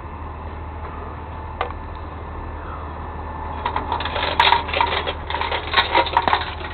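A burst of rapid clicking and rattling, like small metal pieces knocking together, starting a little past halfway and lasting about three seconds, over a steady low hum.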